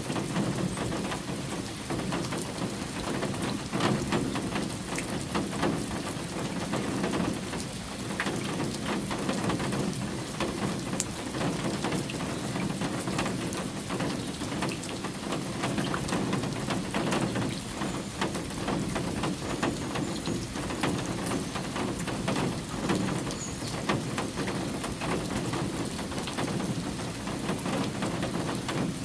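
Steady rain falling: an even hiss dotted with the ticks of single drops.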